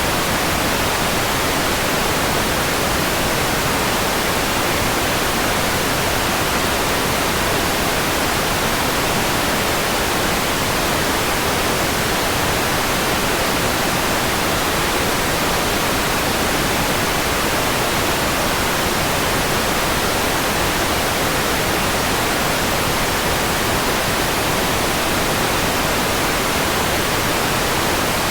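Steady, unchanging white noise: an even hiss spread across the whole range of pitch, with no other sound.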